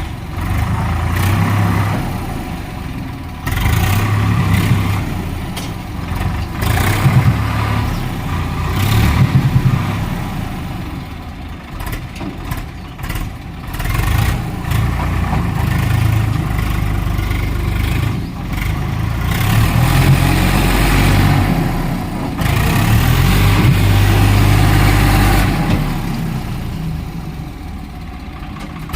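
Swaraj 855 tractor's three-cylinder diesel engine running and revving up and down in repeated surges, with longer sustained pulls in the second half.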